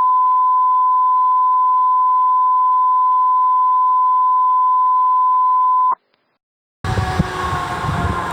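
A steady single-pitch electronic beep tone held for about six seconds, which stops abruptly. After a brief silence, traffic noise and engine rumble come in with a slowly falling siren wail near the end.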